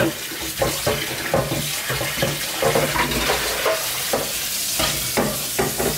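Food frying in a pan with a steady sizzle, while a utensil scrapes and clinks against the pan as it is stirred.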